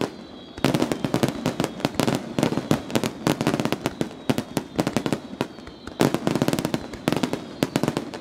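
Aerial fireworks shells bursting in a rapid barrage: dense volleys of bangs and crackling. A brief lull comes at the very start, and a fresh surge about six seconds in.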